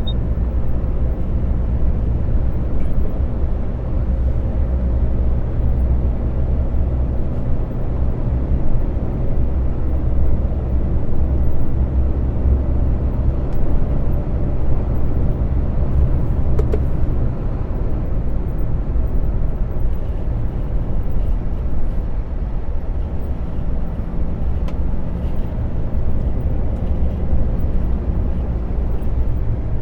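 Lorry's diesel engine and road noise while driving, a steady low drone.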